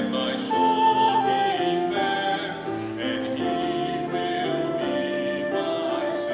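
Slow church music: held chords that change pitch every half second to a second, with singing voices.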